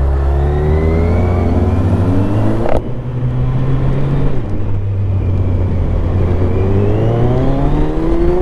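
Motorcycle engine accelerating hard through the gears: the pitch climbs, breaks with an upshift a little under three seconds in, drops again at another shift about four seconds in, then climbs steadily once more.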